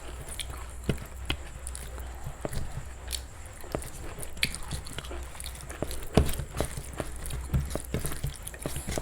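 A person chewing and eating close to the microphone: a steady run of small, irregular mouth clicks and bites, a little louder and busier in the last few seconds.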